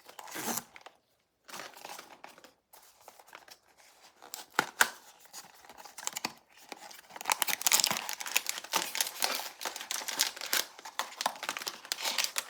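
Pop Mart blind-box packaging being torn open and crinkled by hand, with quick crackles that grow busier and louder from about seven seconds in.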